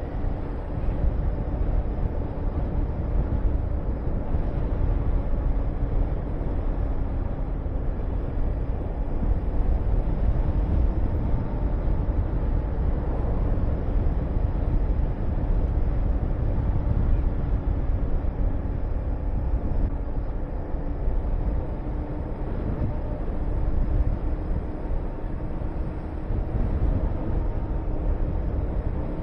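Honda VTR250's 90° V-twin engine running at a steady cruise, under heavy wind rush on the microphone.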